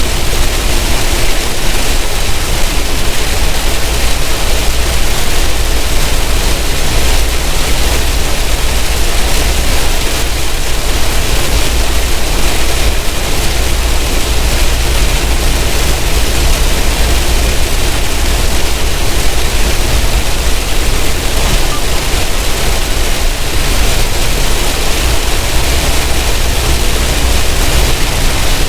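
Steady road noise from a semi truck driving on a wet highway in rain: a constant hiss of tyres and spray over a low rumble.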